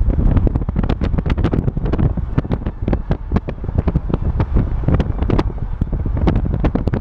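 Wind buffeting the microphone: a heavy low rumble with constant crackling pops.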